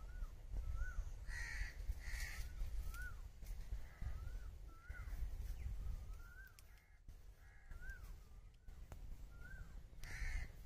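Birds calling: a short rising-and-falling note repeats about once a second, with louder harsh calls twice near the start and once near the end, over a low rumble.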